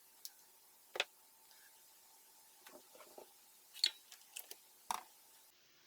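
Scattered sharp clicks and small knocks of hard plastic parts and tools being handled, a few seconds apart, with the loudest about a second in and near the end.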